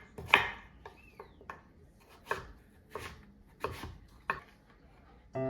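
A knife chopping on a cutting board in slow, uneven strokes, roughly one to two cuts a second.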